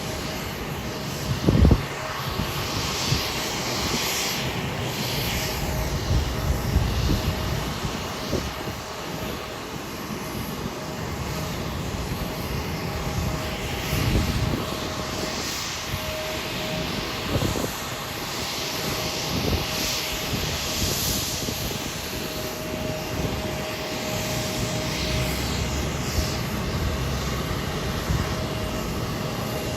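Airliner engines running at the airport: a steady noisy rush with a faint steady whine, and uneven low rumbles swelling and fading.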